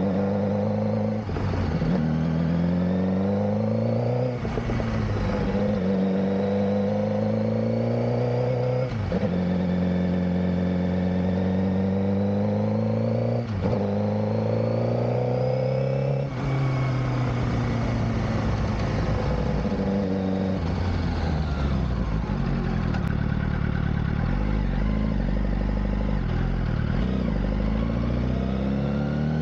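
2007 Suzuki GSX-R600's inline-four engine accelerating hard through the gears, its pitch climbing and then dropping at each upshift, about every three to five seconds. From about halfway the engine note falls and settles lower as the bike slows and cruises.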